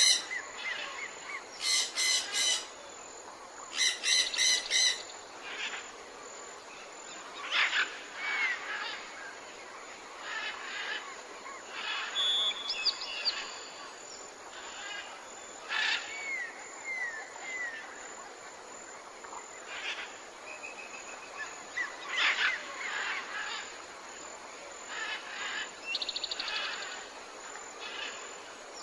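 Several wild birds calling outdoors: harsh repeated calls in the first few seconds, then scattered chirps, short falling whistles and a quick trill, over a steady background hiss.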